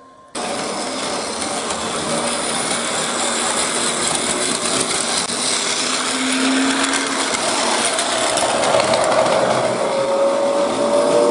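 Train running, a steady rushing noise that swells slowly, with a motor whine rising in pitch near the end.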